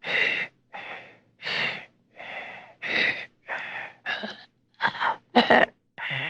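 A person gasping and breathing in short, sharp bursts, about ten in a row with brief silences between, the loudest a little after five seconds.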